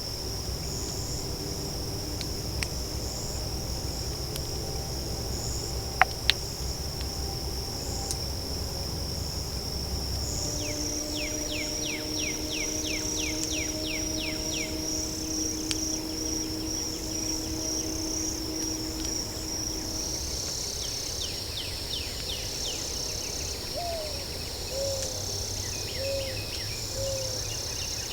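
Night-time swamp insect chorus, a steady high-pitched trill of crickets and similar insects. About six seconds in, two sharp knocks come close together and stand out loudly above the chorus.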